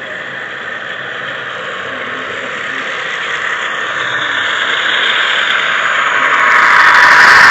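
Model train running along layout track, a hissing wheel-and-motor noise with a faint high squeal, growing steadily louder and loudest near the end.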